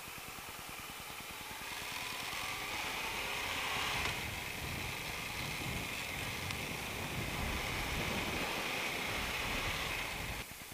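Kawasaki ER-6F 649 cc parallel-twin motorcycle engine pulling away and accelerating, rising in pitch for the first few seconds, then running steadily at town speed, with wind rush on the microphone. The sound drops off suddenly near the end.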